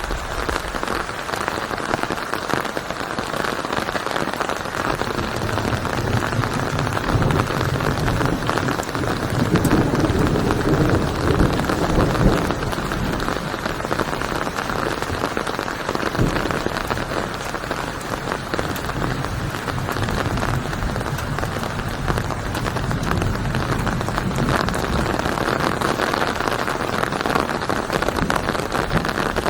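Steady, dense rain falling on a surface, with a low rumble swelling up and fading away in the middle.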